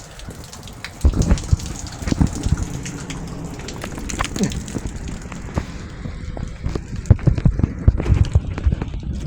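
Rain falling after a thunderstorm, with many drops and small knocks landing close to the microphone.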